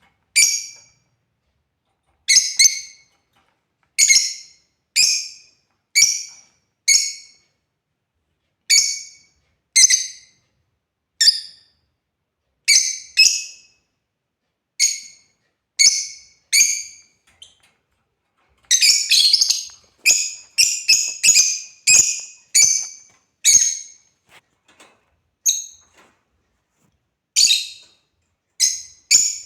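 African lovebirds giving short, high-pitched chirps, about one a second. About two-thirds of the way through comes a quick burst of overlapping chirps, then a few sparser calls.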